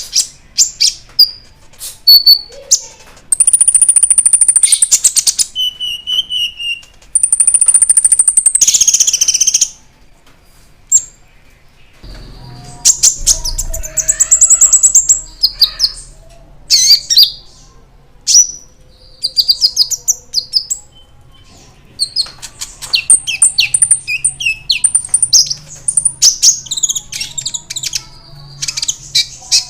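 Konin (kolibri ninja) sunbird singing: sharp, very high chirps, two long rapid high trills about three and seven seconds in, then fast chattering phrases. This is the kind of lure song played to rouse a kept konin to answer.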